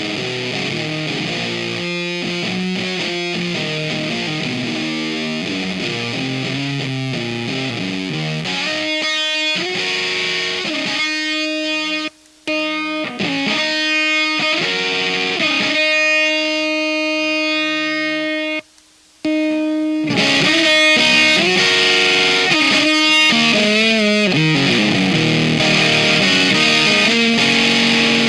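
Electric guitar played through a Square Face-style fuzz pedal, distorted riffs and held notes with thick overtones. It cuts out briefly twice, about 12 and 19 seconds in, and is louder from about 20 seconds in.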